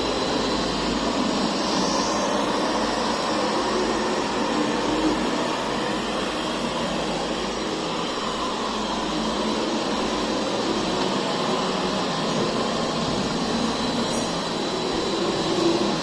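Puppyoo R6 robot vacuum running: a steady, even whir from its suction motor that hardly changes throughout.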